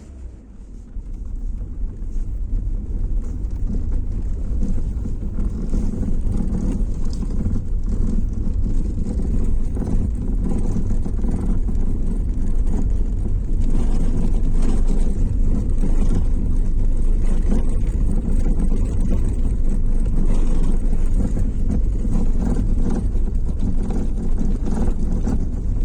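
Car being driven, with a steady road and tyre rumble inside the cabin and faint, irregular knocks from under the steering wheel, from the steering column or the parts beneath it.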